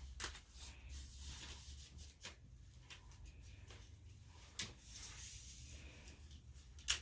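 Quiet handling of a tripod, with four faint sharp clicks about two seconds apart, the last the loudest.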